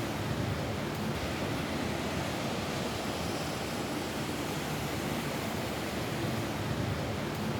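Rain falling steadily on a roof: a dense, even hiss without a break or change.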